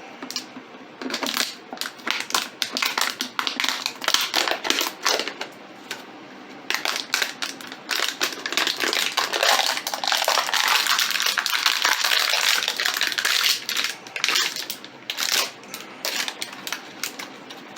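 Hard tool scraping, chipping and tapping at cured polymer patches on concrete samples, a busy run of clicks and knocks that thickens into steady scraping in the middle: testing whether the patches have bonded.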